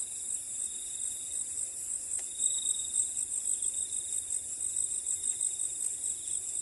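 Crickets chirring in a steady chorus: a high-pitched song pulsing in quick, even beats over a lower continuous trill.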